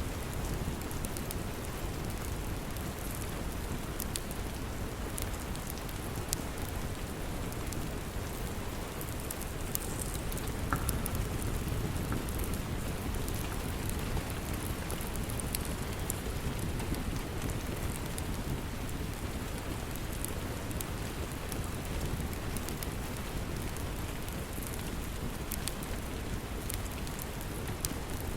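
Steady rain with a wood fire crackling in a fireplace: an even wash of rain noise, dotted with scattered sharp pops and crackles.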